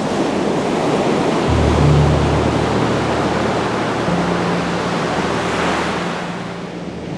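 Ocean surf washing on a shore, a steady rushing wash that swells about two seconds in and eases near the end, with soft background music of low held notes underneath.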